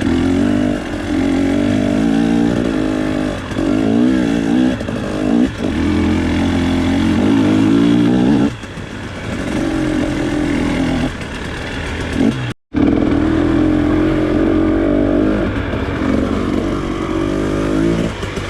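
KTM TPI two-stroke trail bike engine running under load, its revs rising and falling with the throttle. It eases off for a moment about eight and a half seconds in and again around eleven. The sound cuts out for an instant about twelve and a half seconds in.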